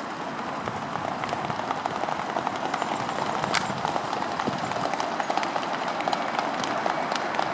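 Swans taking off across the water: a fast, steady patter of feet slapping the surface and wings beating as they run to get airborne.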